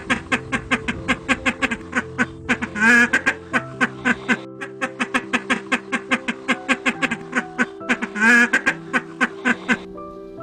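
A fast, even run of short animal calls, about five a second, over steady background music. Two louder, longer warbling calls come about three and eight seconds in.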